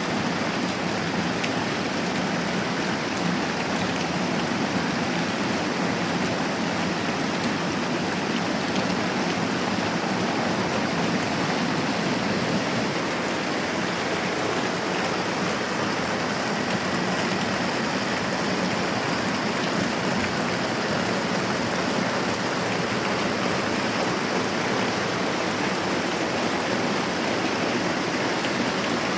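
Moderate rain falling steadily, an even hiss with no pauses or changes.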